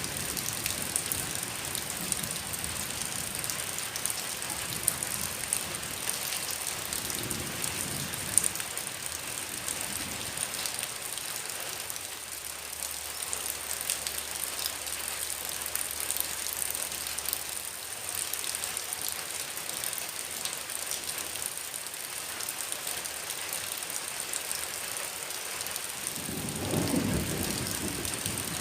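Heavy rain falling steadily, an even hiss with fine drop patter throughout. A low rumble swells briefly near the end.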